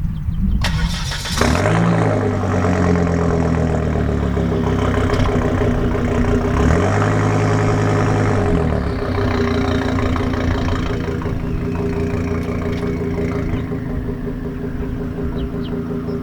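Volvo V70 2.5T's turbocharged inline-five, breathing through a catless 3-inch downpipe, starting up. It catches about a second and a half in and runs at a raised idle, its engine speed rises briefly about halfway through, and it then settles to a steady, lower idle.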